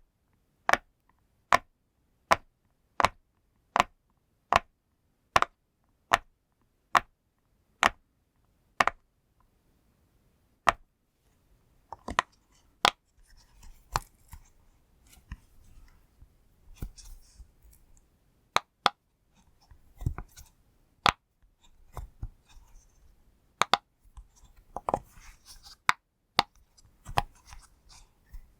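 Pop toy being popped one bubble at a time: sharp pops about every three-quarters of a second for the first nine seconds. After a short pause come irregular pops mixed with soft rustling and handling of the toy.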